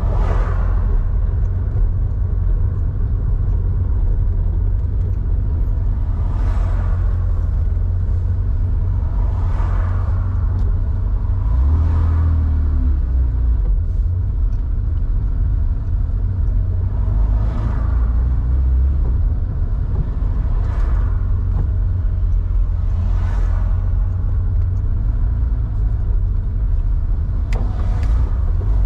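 1987 Porsche 911's air-cooled flat-six, enlarged to 3.4 litres and breathing through a Scart 2-in-1-out muffler, running at steady low revs on the move with a deep rumble. Brief rushing swells come and go every few seconds.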